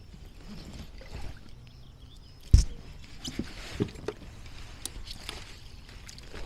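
Scattered knocks and clicks of handling aboard a kayak just after a bass is landed, with one loud thump about two and a half seconds in.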